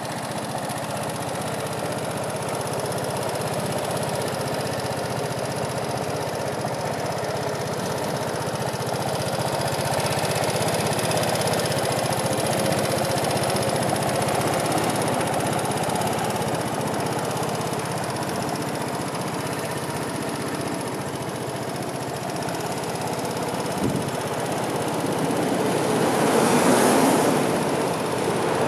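Vespa Primavera 125 scooter's single-cylinder four-stroke engine idling steadily. There is a sharp click late on and a short swell in engine sound near the end.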